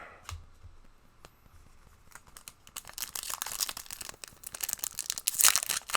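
Foil trading-card booster pack being torn open and its wrapper crinkled, starting about three seconds in after a few faint clicks.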